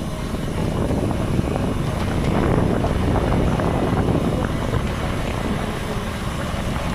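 Wind buffeting the microphone as a bicycle speeds downhill at around 45 km/h: a dense low rushing that swells to its loudest in the middle.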